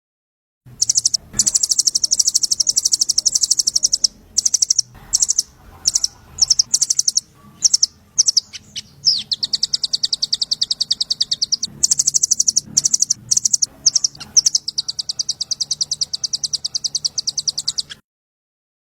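Small songbird singing a fast, high trill of rapidly repeated notes in long runs broken by short pauses. It starts about a second in and cuts off abruptly near the end.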